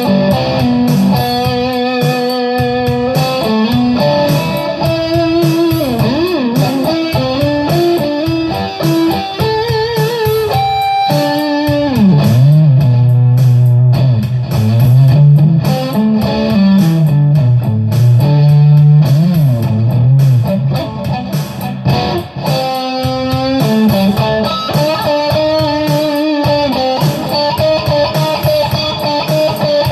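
Electric guitar playing improvised single-note lead lines with bends and vibrato. About twelve seconds in it drops to lower, louder notes, then climbs back up near twenty seconds.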